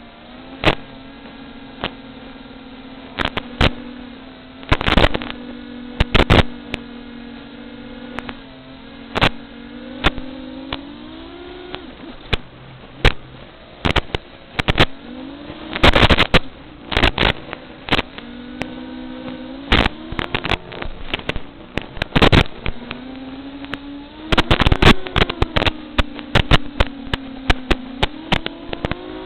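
Electric motors of an FPV drone whining, the pitch rising and falling in several passes as the throttle changes, with frequent sharp clicks and crackles over it.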